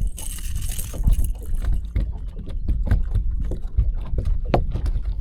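Wind rumbling on the microphone aboard a bass boat, with a hissing gust in the first second and scattered knocks and taps throughout.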